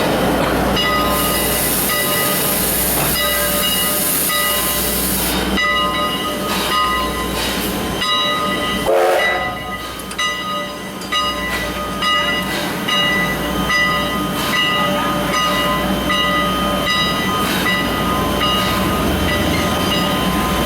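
Railroad train running on the track, a steady mix of rumble and thin steady tones from the wheels and cars, with a hiss for a few seconds near the start.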